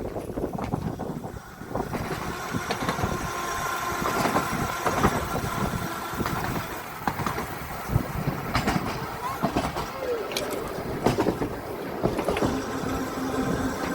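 Narrow-gauge electric tram running along the line: wheels knocking and rattling on the track, with a faint steady whine over it.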